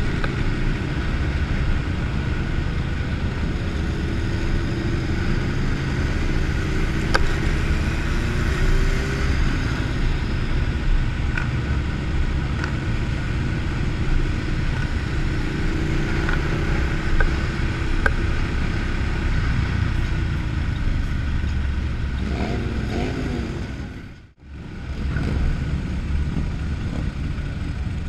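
Motorcycle engines running on the road, with wind on the microphone and the engine pitch rising and falling now and then. The sound cuts out briefly near the end, then comes back.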